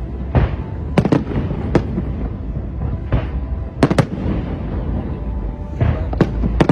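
Fireworks going off: sharp bangs and pops at irregular intervals, some in quick clusters of two or three, over a steady low rumble.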